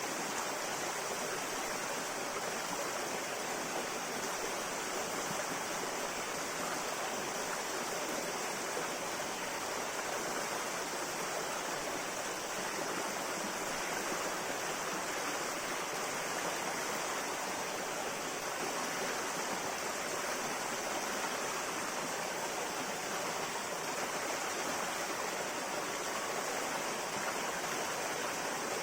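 River water flowing steadily over stones, a continuous even rush with no breaks.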